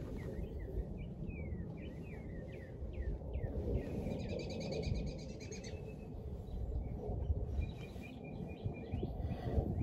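Wild birds calling: a run of quick downward-sweeping chirps, then a fast trill about four seconds in and another shorter trill near the end, over a steady low rumble.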